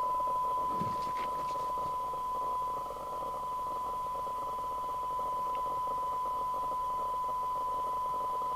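Steady 1 kHz test tone from a Maxcom Apollo 16E FM CB radio's receiver, the signal generator's modulation received at a weak test signal with faint hiss around it, a couple of faint clicks about a second in.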